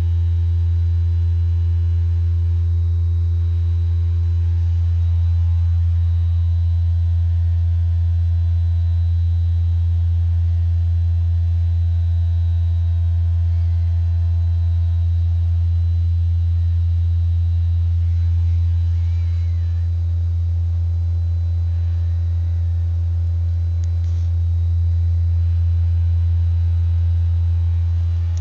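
A steady, loud low-pitched vibrating hum of unknown origin, sounding almost like a phone vibrating on a table.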